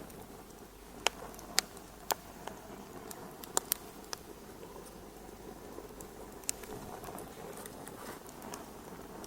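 Wood fire crackling in a fireplace: a soft steady hiss broken by sharp, irregular pops, several in the first four seconds and one more near the middle.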